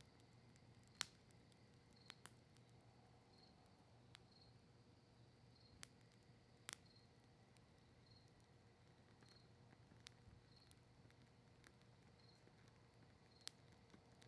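Campfire of cedar leaves and maple wood crackling faintly: sparse, irregular sharp pops, the loudest about a second in, over a low steady hiss.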